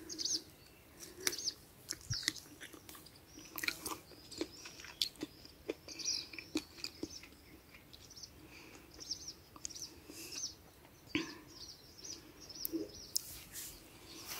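Small birds chirping, many short high notes repeated throughout, with scattered sharp clicks and rustles, the loudest a little after eleven seconds in.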